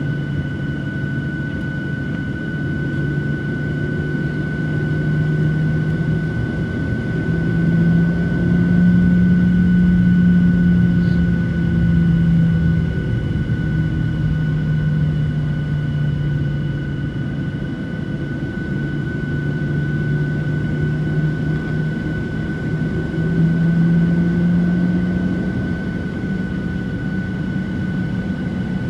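Boeing 737-700 jet engines (CFM56-7B) running at low power with a steady high whine and a low hum that drifts up and down in pitch and loudness several times, as thrust is adjusted while taxiing.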